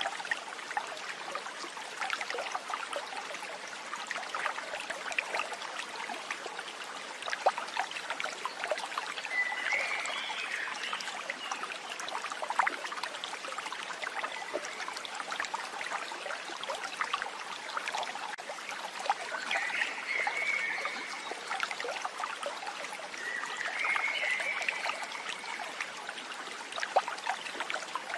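Stream water trickling and splashing, a steady crackly babble, with a short high chirping call heard three times: once about ten seconds in and twice in the last third.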